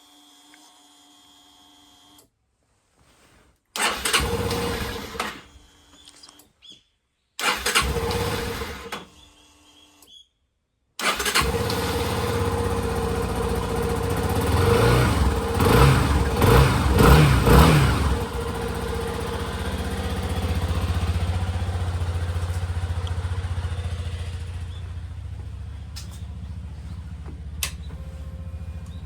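Cold start of a long-stored motorcycle engine. The electric starter cranks in two short bursts without catching. On the third try, about 11 seconds in, the engine fires and is blipped a few times, then settles into a steady low idle.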